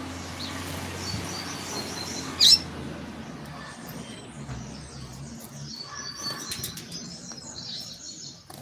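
Coleiro (double-collared seedeater) singing short, high, quick notes of its tui-tui song in two spells, with one sharp loud sound about two and a half seconds in.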